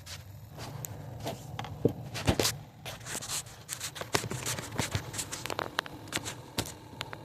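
Irregular clicks, snaps and scraping rustles of hands working with plastic parts and trim, with no steady rhythm.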